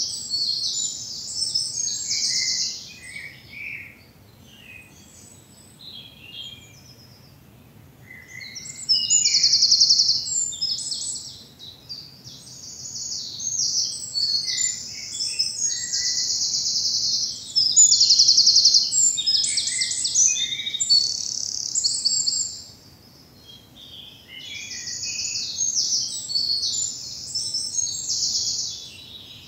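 Songbirds singing in a spring woodland: loud, high-pitched phrases with rapid trills, coming in bursts of a few seconds with a longer lull about four seconds in and a short pause near the end.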